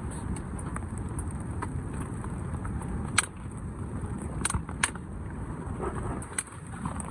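Wind buffeting the microphone in a snowstorm, a steady low rumble, with a few sharp clicks or knocks near the middle and toward the end.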